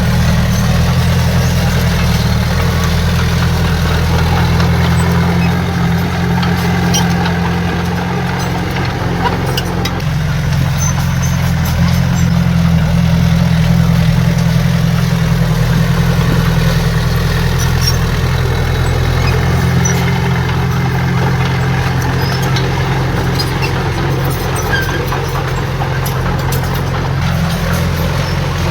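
Heavy earthmoving machine's diesel engine running steadily, a deep, even drone.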